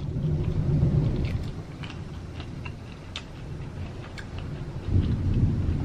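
Close-miked chewing with scattered wet mouth clicks over a low muffled rumble, which swells in the first second and again near the end.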